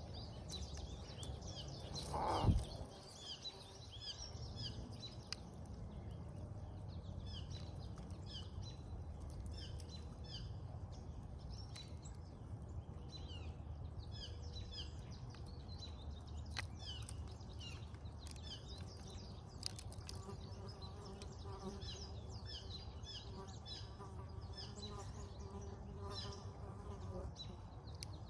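Small birds chirping rapidly and continuously over a low outdoor rumble, with one loud, brief whoosh falling in pitch about two seconds in. A faint steady hum joins in for several seconds near the end.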